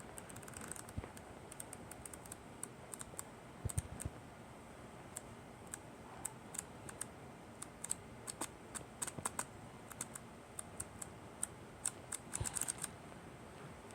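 Faint, irregular light clicks and taps from a book being handled while its pages are looked through, over a low steady background hiss.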